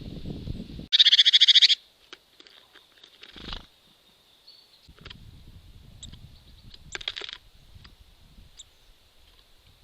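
A bird's harsh, buzzy rattling call, loud and under a second long about a second in, and a shorter, fainter one around seven seconds, over low rustling.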